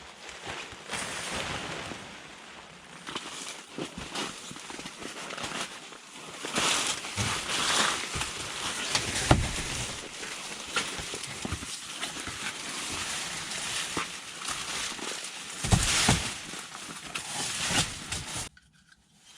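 Winter tent being set up by hand: irregular rustling and scraping of the fabric and gear, with a few sharp knocks, the loudest about halfway through and again near the end.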